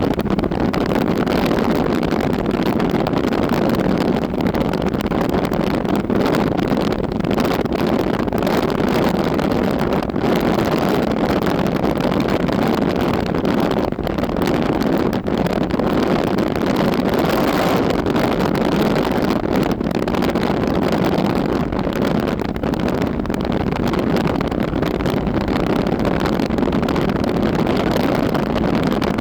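Wind blowing, a steady deep rushing noise that swells and eases gently.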